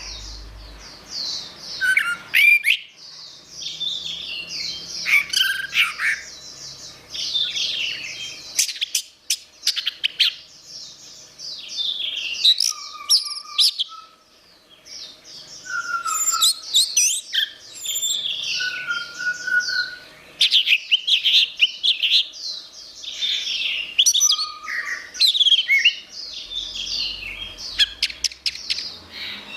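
Orange-headed thrush (anis merah) singing a long, varied song of quick sweeping, warbling phrases, broken by short pauses. A faint steady hum runs underneath.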